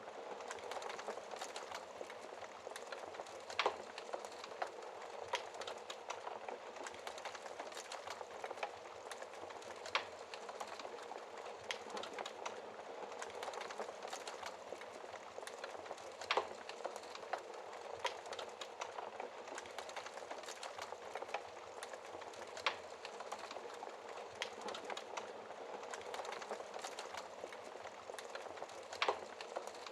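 Wood fire crackling in a fireplace: a steady soft hiss of burning with frequent small irregular crackles and a few louder pops.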